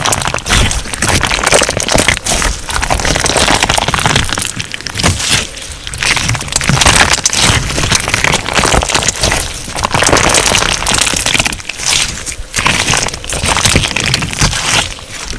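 Crunch slime being squeezed and kneaded by hand: a dense run of crackling and popping that swells and eases every few seconds as the slime is pressed and released.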